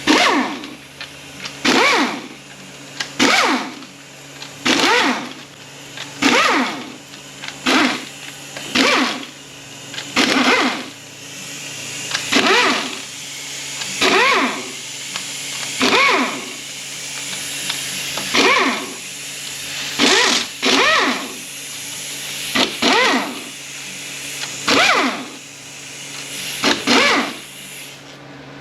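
Ratchet wrench with a 10 mm socket being worked back and forth to run out a bolt on an automatic transmission case. Each swing makes a short ratcheting buzz whose pitch sweeps with the speed of the stroke, and the strokes repeat about every one and a half to two seconds.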